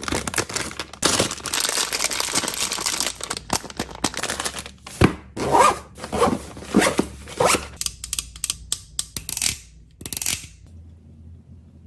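Packaging being crinkled and torn for the first few seconds, then a run of short, separate scraping strokes about half a second apart. The strokes thin out and stop shortly before the end.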